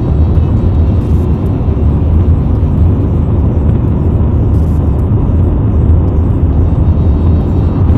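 Airliner cabin noise: a steady, loud low rumble of engines and airflow heard from inside the passenger cabin.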